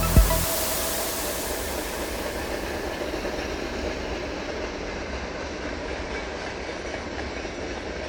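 A train running along the rails, its rushing noise slowly fading as it moves away.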